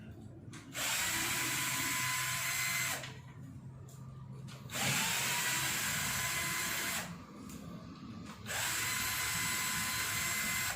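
Drill-driver motor running in three separate bursts of about two seconds each, with short pauses between, as it backs bolts out of a truck engine one after another; the second burst audibly spins up in pitch as it starts.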